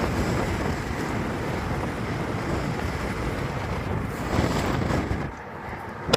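Strong wind buffeting the microphone: a steady, rushing noise heavy in the low end, easing briefly near the end, followed by one sharp click.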